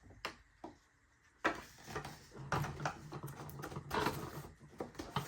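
Handling noise from the model plane's parts: a few small clicks, a sharp click about a second and a half in, then irregular clicking and rustling over a low hum.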